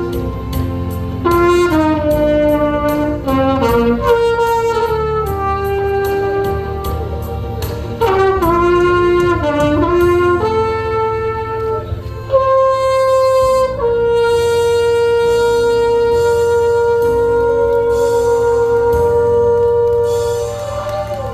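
Trumpet playing a trot melody over a backing track, finishing on one long held note of about seven seconds near the end.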